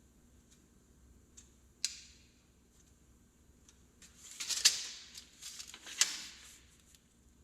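Small handling sounds of tools or materials: a single sharp click about two seconds in, then about three seconds of scraping with two sharp clicks in it.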